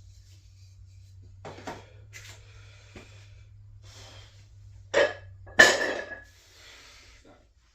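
A person breathing and puffing hard through a weight-training set. About five seconds in come two loud knocks; the second is the loudest and has a brief metallic ring.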